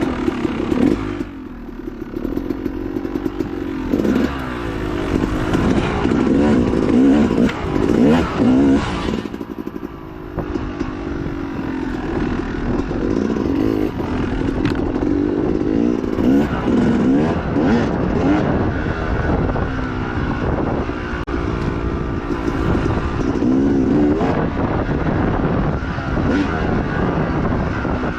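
Dirt bike engine racing along a trail, revving up and falling back again and again as the throttle is worked, with short lifts off the throttle about a second and a half in and around ten seconds in. Rattling and wind noise run under the engine.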